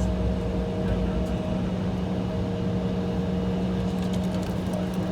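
Steady cabin drone of an Embraer E175 on the taxiway, its General Electric CF34 turbofans running at low power: a low hum with a couple of fainter steady higher tones over a rumble.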